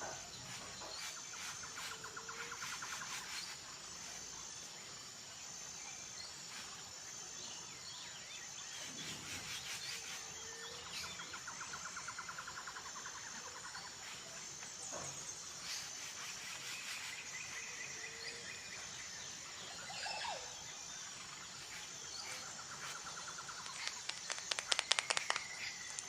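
Nature ambience of birds and insects: an insect keeps up a steady high chirping in even pulses while a bird gives a rapid trill three times. Scattered clicks run throughout, and near the end a quick run of sharp clicks is the loudest sound.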